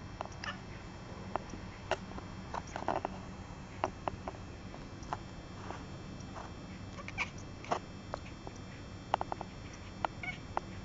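Persian kittens giving short, scattered squeaks and mews amid irregular small clicks, typical of kittens suckling milk.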